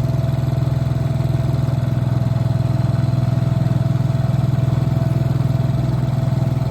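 Small 7 hp four-stroke outboard motor running at a steady speed, pushing the boat along, with a steady hum and a faint higher whine over it.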